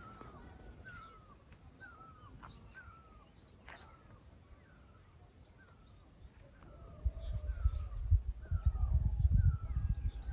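A bird calling over and over, a short falling note about every half second to two-thirds of a second. From about seven seconds in, a louder, irregular low rumble of wind buffeting the microphone comes in under the calls.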